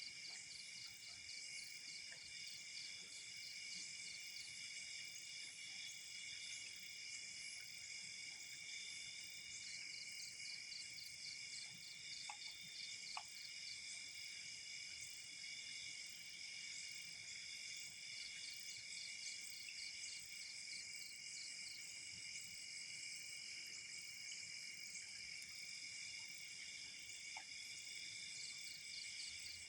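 Night insect chorus of crickets trilling steadily in several high pitches. Now and then a fast, even pulsing chirp joins in and drops out, and two faint ticks come about halfway through.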